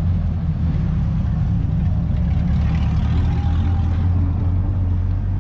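A car's engine idling with a steady low rumble.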